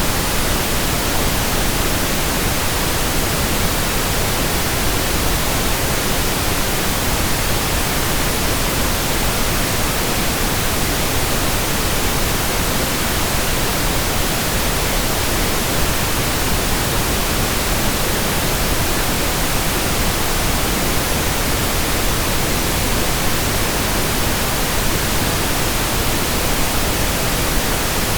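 Steady pink noise: an even, unchanging hiss spread across all pitches, without breaks or events.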